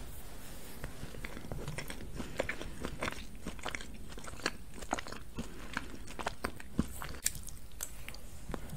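Chocolate cake being chewed close to a microphone: a steady run of short, sharp mouth clicks and smacks from chewing and biting.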